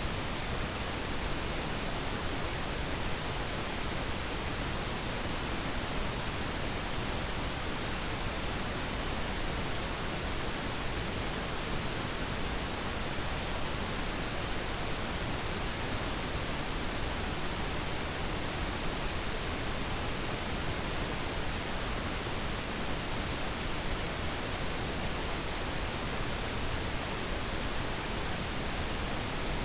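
Steady, unchanging pink noise: an even, continuous hiss.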